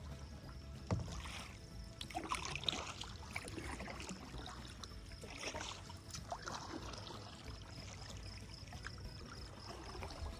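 Kayak paddle dipping and splashing in river water, with several uneven strokes in the first seven seconds and quieter water after that, over a low steady rumble.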